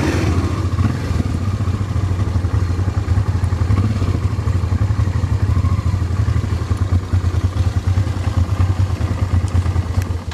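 Honda Transalp 650's V-twin engine running steadily at low revs with a deep, even note, stopping suddenly at the very end.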